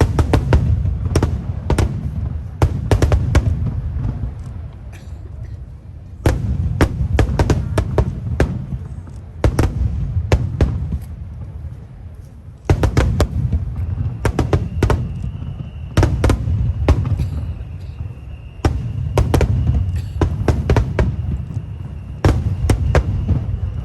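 Aerial fireworks display: a deep boom of a bursting shell roughly every three seconds, each followed by a rapid run of sharp crackling reports. A faint steady whine runs through the second half.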